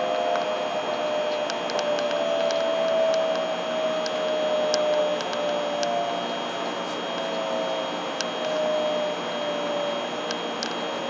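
Shinkansen train running, a 700 series Rail Star set: steady running noise with a motor whine that falls slowly in pitch as the train slows, plus a few faint ticks.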